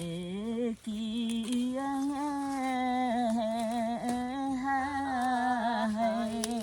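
A woman singing a slow tune without clear words, in long held notes with a wavering vibrato. There are short breaks for breath in the first second and a half.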